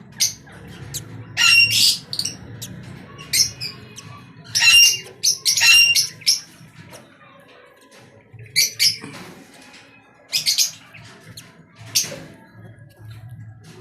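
Pet birds squawking: a dozen or so short, harsh, high-pitched calls scattered irregularly, over a faint low hum.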